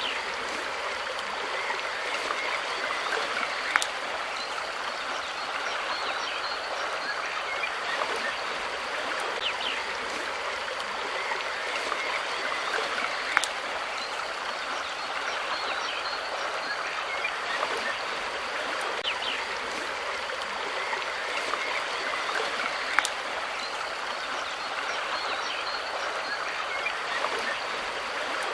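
Steady rushing of running water, like a stream, with faint short high chirps and a few sharp clicks; the same pattern repeats about every ten seconds.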